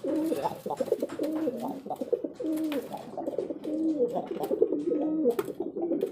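Domestic pigeons cooing: several overlapping coos, each rising and falling, repeating without a break.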